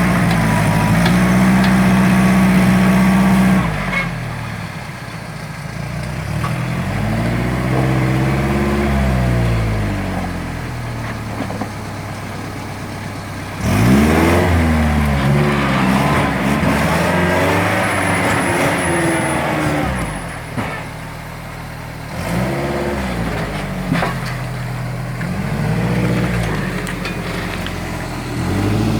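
Off-road vehicle's engine revving up and falling back in repeated surges as it backs up a rocky waterfall ledge, held at high revs for the first few seconds, then several shorter pushes of throttle.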